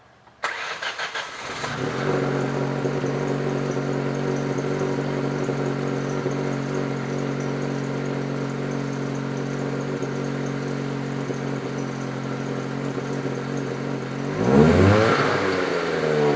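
2002 Ford SVT Focus's 2.0-litre four-cylinder engine, heard through its stock exhaust. It starts after a brief crank about half a second in, then idles steadily. Near the end it gives one quick rev that rises and falls back.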